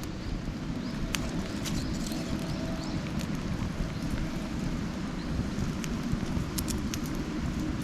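Wood campfire crackling: irregular sharp pops and snaps over a steady low rushing.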